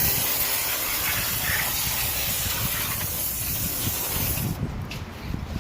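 High-pressure spray wand at a self-service car wash jetting water and soap onto the car, a steady hiss that cuts off about four and a half seconds in.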